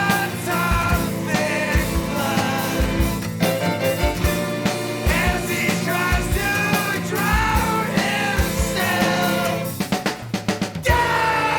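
Noisy rock band playing, with drum kit kicks and snare under steady low bass notes and a wavering, bending lead line. Near the end comes a quick run of drum hits, then a held chord that slides down in pitch.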